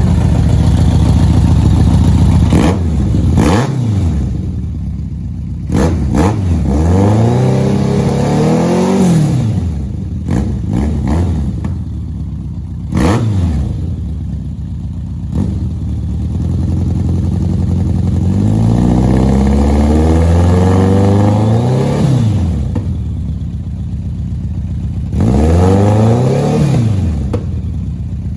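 1991 BMW K1's inline-four engine, running through a newly installed full exhaust, idling and revved up about five times. Most revs are short blips that rise and fall within a second or two; one about two-thirds of the way through climbs for several seconds before dropping back.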